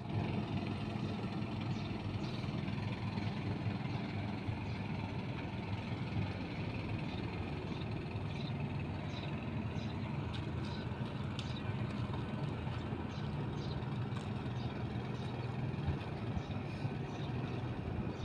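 Boat engine idling with a steady low drone, with faint scattered ticks over it.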